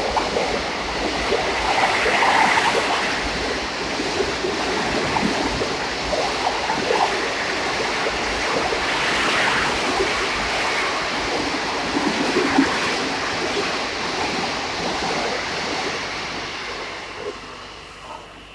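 A train running past at a railway station: a loud rushing rumble with scattered clanks, gradually fading away near the end.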